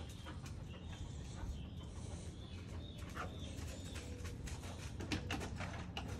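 Quiet backyard ambience: birds calling, including a low cooing tone, over a steady low hum, with a few light scattered clicks.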